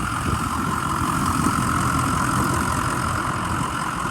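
Ford 6.0-liter Power Stroke V8 turbo-diesel engine idling steadily.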